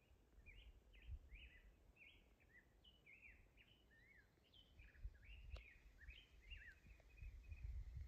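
Faint songbird singing: a quick, varied run of short chirping and warbling notes that stops about a second before the end. Underneath is a low rumble on the microphone that grows toward the end.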